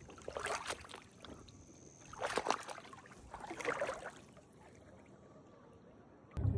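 Three swishing paddle strokes through water, about a second and a half apart, over a quiet outdoor hiss.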